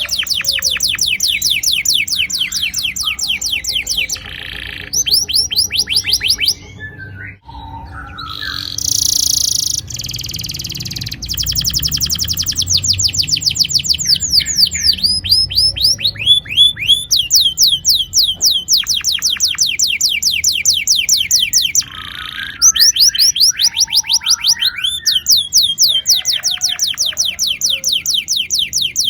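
Domestic canary singing long, fast rolling trills: runs of many quickly repeated high notes, each sliding down in pitch. The runs are broken now and then by short buzzy, harsher phrases.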